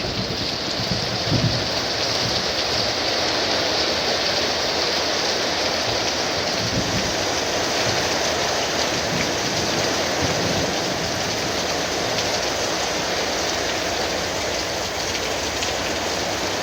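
Heavy thunderstorm downpour: a steady, even hiss of rain pouring down.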